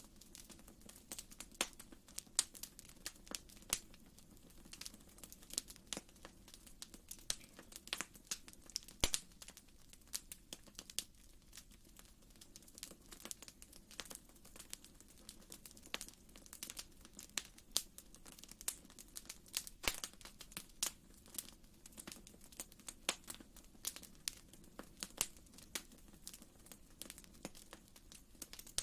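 Wood fire crackling in a fireplace: irregular small pops and snaps, several a second, over a faint steady low hum.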